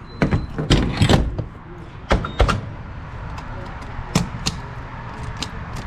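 A run of sharp clunks and clicks, then a steadier noise with two more clicks about four seconds in, from refuelling a pickup truck at a gas pump.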